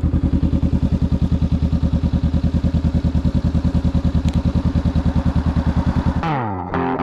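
2021 Honda Rebel 500's parallel-twin engine idling steadily with an even, pulsing exhaust beat. Near the end it cuts off and distorted electric-guitar music comes in with a falling glide.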